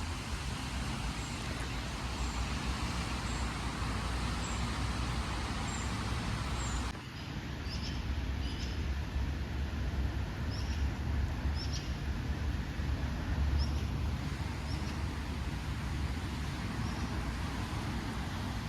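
Steady outdoor background noise with a strong low rumble, over which birds give short high chirps every second or so. The background changes abruptly about seven seconds in, and the chirps carry on.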